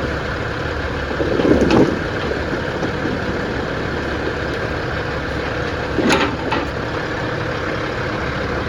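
Heavy engine running steadily as logs are loaded onto a log truck, with two loud knocks, about a second and a half in and again about six seconds in.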